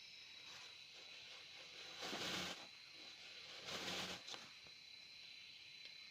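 Quiet, steady insect drone in the forest, a thin high whine with a hiss beneath it. Two short hissing swells stand out, about two seconds in and again about four seconds in.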